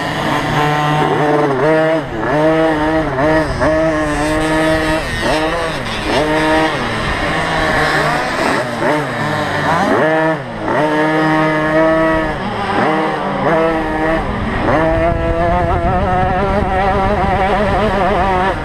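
Small 50cc two-stroke motocross bikes racing, several engines at once repeatedly revving up and dropping back.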